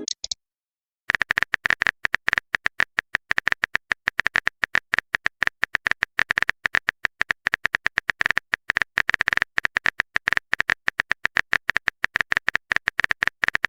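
Phone keyboard typing sound effect: a long run of rapid, irregular clicks, several a second, starting about a second in.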